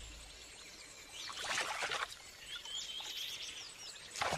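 Wild birds calling outdoors: short chirps and quick falling whistles, with a louder noisy burst about a second and a half in.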